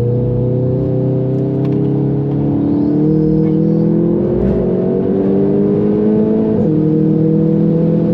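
Volkswagen Golf 7 GTI's turbocharged four-cylinder engine pulling under hard acceleration, heard from inside the cabin. Its pitch climbs steadily, with a quick upshift about three seconds in and another about six and a half seconds in.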